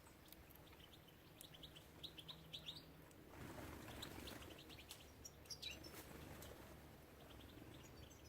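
Faint chirping of small songbirds at a feeder: quick series of short high chirps, with a soft rush of noise about midway.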